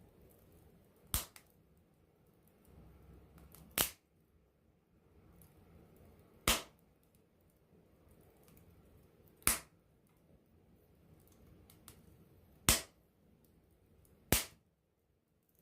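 Wood campfire burning, with six sharp pops a couple of seconds apart over a faint low crackle.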